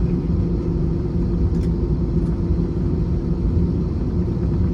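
Steady low rumble of an Airbus A321's jet engines heard from inside the passenger cabin, with a steady hum running through it.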